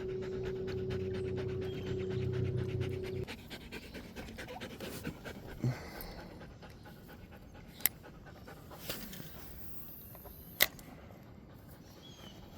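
A dog panting fast and steadily. A steady motor hum runs underneath and cuts off about three seconds in, and a few sharp clicks follow later.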